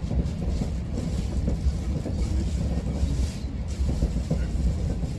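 GO Transit commuter train running at speed, heard from inside a passenger coach: a steady low rumble of wheels on the rails with an even running noise over it.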